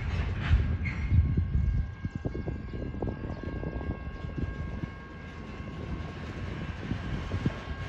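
Train rolling past: a low rumble with irregular knocks from the wheels, loudest in the first couple of seconds, with a faint steady whine above it.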